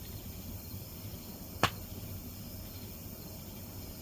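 A single sharp pop about a second and a half in from a circuit board burning in a burn barrel, over a faint steady hiss. The owner takes the popping for the board's capacitors bursting in the heat.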